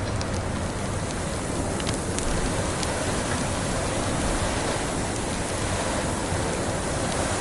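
Wood fire crackling with a few sharp pops, most in the first three seconds, over a steady rush of blizzard wind.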